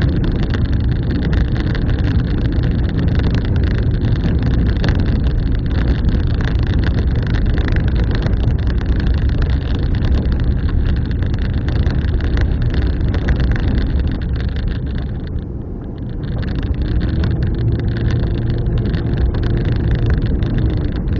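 Car driving along, heard from inside the cabin: steady engine and road rumble. It eases off briefly about three-quarters of the way through, then picks up again with a faint hum.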